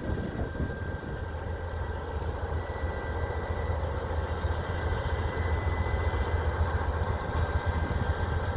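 Norfolk Southern freight train rolling past at low speed: a steady low rumble with two faint, steady high tones over it.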